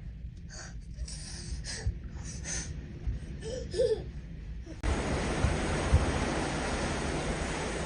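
Low rumble with faint scattered voices and a short laugh-like call, then about five seconds in an abrupt switch to a steady rushing noise of wind and sea.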